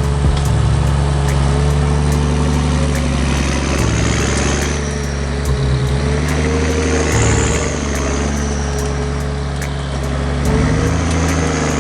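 Heavy forestry machine's diesel engine running steadily, with a high whine that swells and fades a few times.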